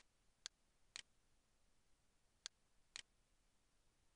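Faint, sharp computer-mouse clicks over near silence: three in the first second, then two more about two and a half and three seconds in.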